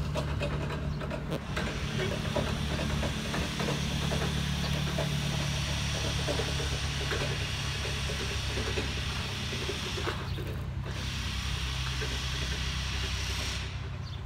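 A vehicle engine idling steadily, a low hum with small clicks over it.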